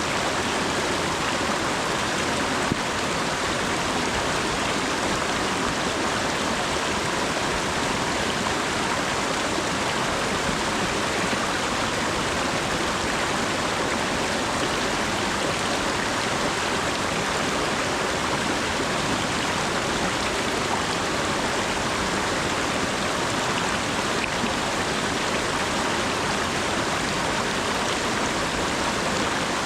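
Steady autumn rain falling, an even unbroken hiss with no individual drops standing out.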